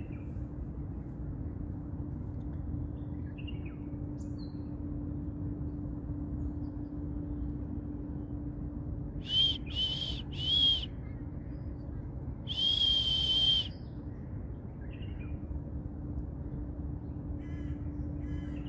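A bird calling: three short, harsh calls about half a second apart, then one longer call, over a steady low hum and rumble.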